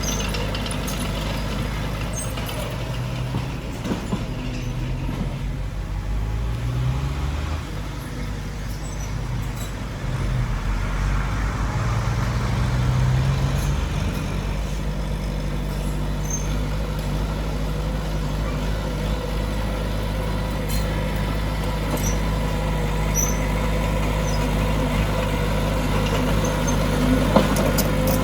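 Heavy diesel engine of earthmoving machinery running steadily, revving up a couple of times, around a third and again about halfway through.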